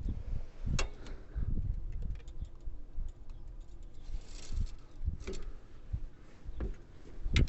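Scattered clicks, taps and short low thumps of hands handling parts and caps under the hood, irregular and without rhythm.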